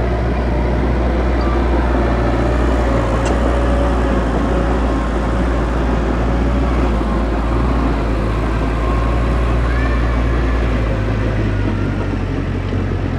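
Heavy earthmoving machinery's diesel engine running steadily with a deep, constant rumble; its low note shifts about eleven seconds in.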